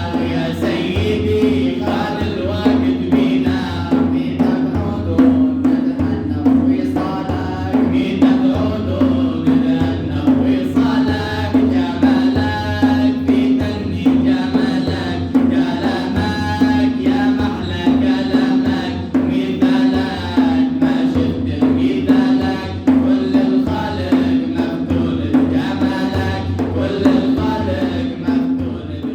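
Male voices chanting an Arabic Sufi madih, a praise song to the Prophet, over a steady drone and a regular drum beat.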